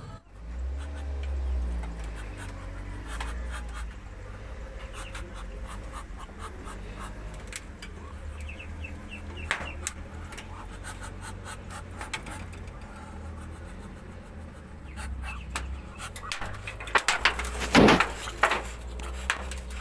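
Ducks calling now and then, with a short run of repeated calls partway through and one loud falling call near the end, over a steady low rumble and scattered clicks and knocks.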